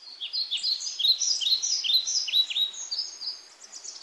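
Birds singing: a busy run of quick, high chirps and whistles that thins out and fades near the end.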